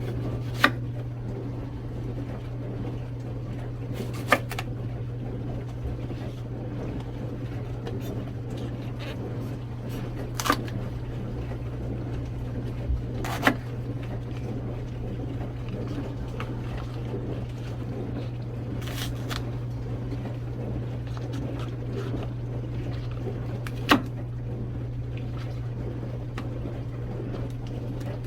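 A steady low hum with a few scattered clicks and knocks of kitchen items being handled.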